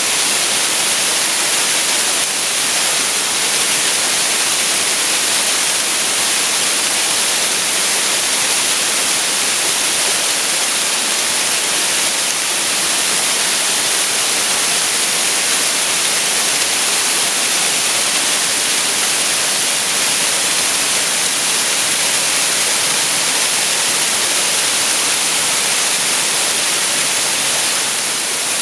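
Waterfall rushing steadily, a dense, even hiss of falling water with little low rumble.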